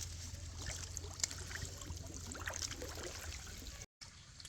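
Water trickling and sloshing, with scattered small clicks and knocks over a steady low hum. The sound drops out for a moment near the end.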